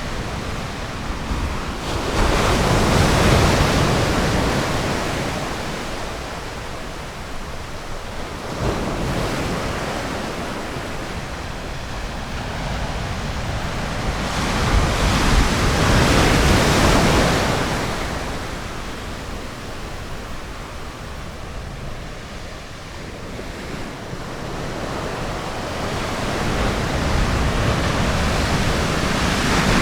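Ocean waves breaking and washing on a beach, a steady rush that swells and fades in slow surges, loudest a few seconds in and again in the middle, building once more near the end.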